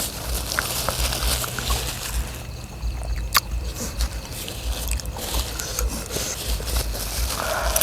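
People eating at close range: chewing with irregular soft thumps and scattered sharp clicks, the loudest click a little under halfway through.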